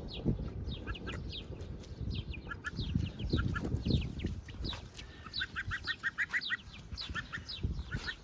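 Gosling peeping: many short, high peeps that fall in pitch, with a quick run of short chirps about five to six seconds in. A low rumble runs underneath.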